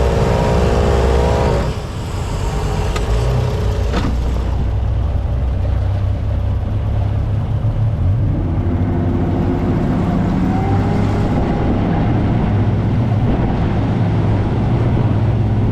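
Yamaha 300 outboard running with the boat underway, a steady low drone with a higher pitched note in the first couple of seconds that drops away. This is a sea trial for an engine that shuts down above 4,000 RPM.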